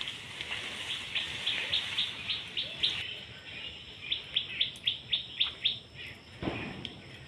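A bird calling a quick series of short, high chirps, about four a second, in two runs with a short pause between, over a steady background hiss. A brief rustle comes near the end.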